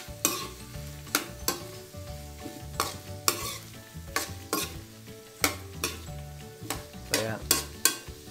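Metal ladle scraping and knocking against a wok, stir-frying carrots with chicken livers and gizzards while the oil sizzles. The scrapes come irregularly, about twice a second.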